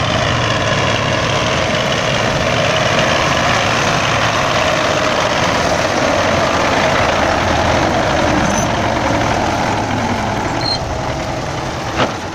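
Diesel engine of an MTZ-82 tractor running steadily, with one sharp click near the end.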